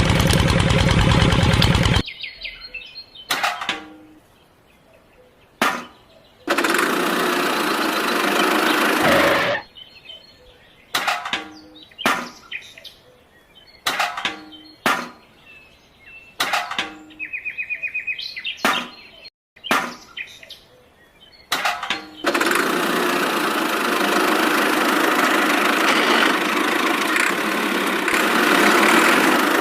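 A small motor runs steadily and cuts off suddenly about two seconds in. Then come scattered clicks and knocks, a few short bursts of noise and a brief fast ticking. Steady motor noise starts again about two thirds of the way through.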